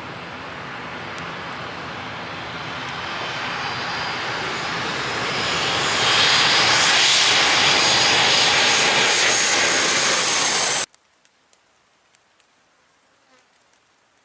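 Jet airliner passing low overhead: engine noise with a high whine rising in pitch, growing louder over about six seconds and staying loud, then cutting off abruptly near the end to near silence.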